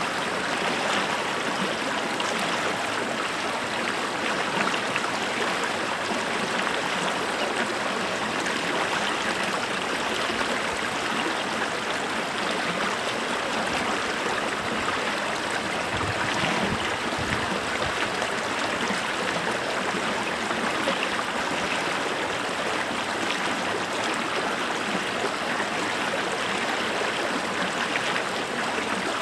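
Creek water running steadily over stones, a continuous babbling rush.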